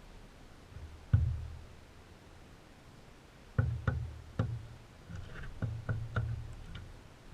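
Irregular knocks and taps close to the microphone, from birds at a feeder: a sharp knock about a second in, then a run of several more from about halfway.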